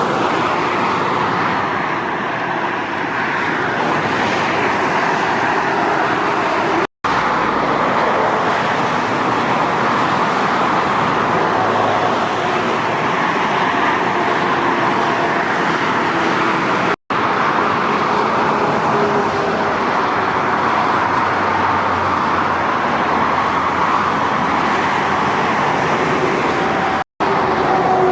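Motorway traffic with lorries and cars passing at speed: a steady, loud rush of tyre and engine noise with faint sliding tones. It drops out abruptly three times, about ten seconds apart.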